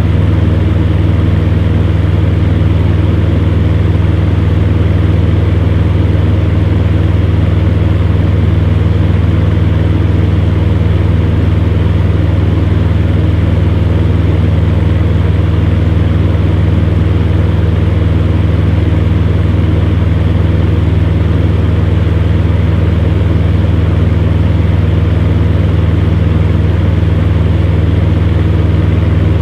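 Electric fan running steadily: a constant low hum with an even rush of air over it.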